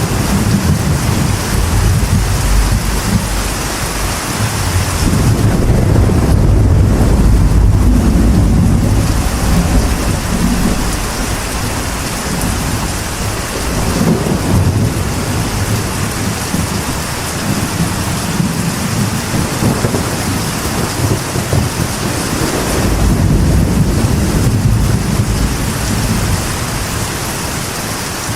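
Steady rain on a metal roof with rolling thunder that swells twice, once about a fifth of the way in and again near the end.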